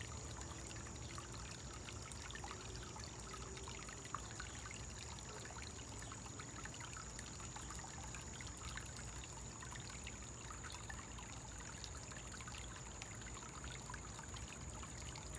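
Small backyard koi pond waterfall trickling and splashing steadily.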